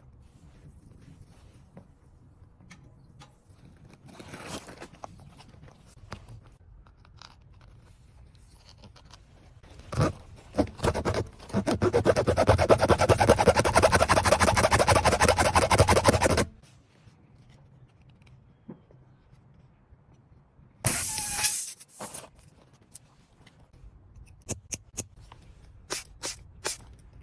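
A small motor-driven tool runs with a rapid even pulsing for about five seconds, starting with a few short spurts and then stopping abruptly. About four seconds later comes a brief loud hiss, then a few sharp clicks near the end.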